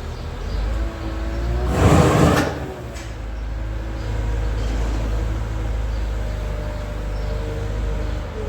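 Farm machinery running steadily with a low drone and a faint wavering whine, and a loud rushing burst about two seconds in.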